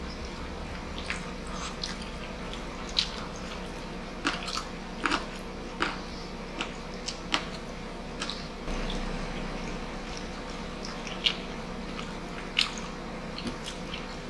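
Close-up chewing and wet mouth smacks of people eating grilled chicken, pork barbecue and rice, with a dozen or so irregular sharp smacks. A steady air-conditioner hum runs underneath.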